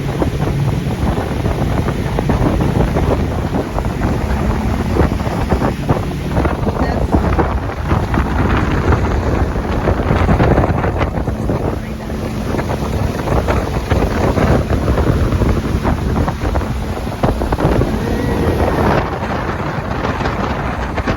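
Wind buffeting the microphone on a boat underway, over the steady drone of the boat's engine and the rush of water.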